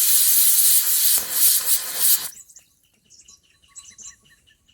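Loud steady hiss that cuts off suddenly a little over two seconds in, leaving faint, rapidly repeated chirping.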